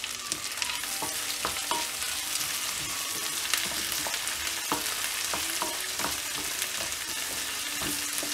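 Chopped onion and tomato sizzling in hot oil in a black kadai, a steady hiss, with a wooden spatula scraping and tapping the pan at irregular moments as it stirs. This is the stage where the tomato, just added to the fried onions, is being fried soft.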